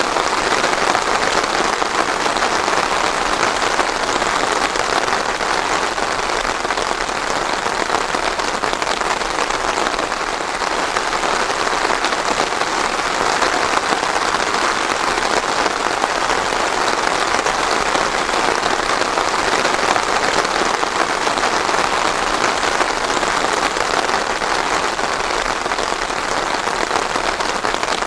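Steady rain falling on a surface, a dense even hiss of drops without thunder.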